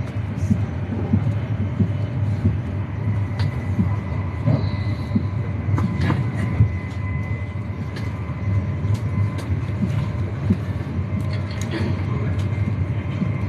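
Cabin noise inside a high-speed train running at speed: a steady low rumble with scattered sharp clicks and a faint steady high whine.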